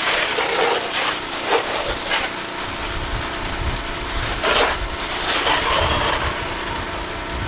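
Pressure washer's engine running steadily, with short hissing bursts now and then.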